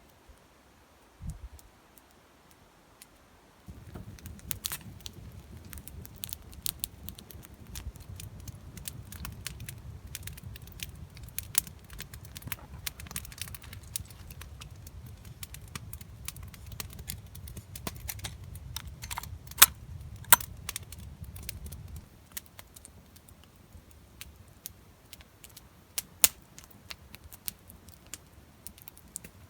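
Campfire crackling and popping, with irregular sharp cracks, the loudest about two-thirds of the way in. A low rumble joins about four seconds in and cuts off sharply about 22 seconds in.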